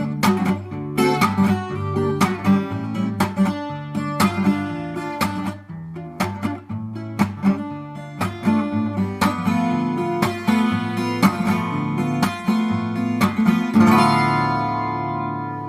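Twelve-string New Tone acoustic guitar with a solid bubinga body, played unplugged: a run of plucked and strummed chords, then a final chord near the end left to ring and fade.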